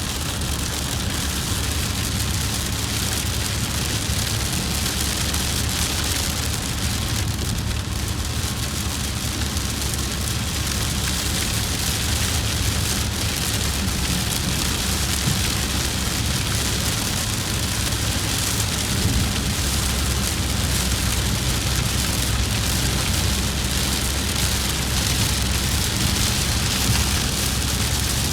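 Rain falling on a moving vehicle, a steady hiss over a constant low road-and-engine rumble.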